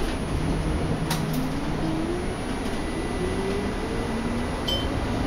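Toronto streetcar's electric traction motors whining, rising steadily in pitch as the car accelerates, over the steady rumble of the car.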